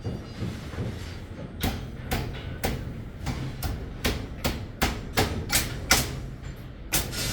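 Hammering: about a dozen sharp knocks, roughly two a second, starting about a second and a half in, over a steady low rumble.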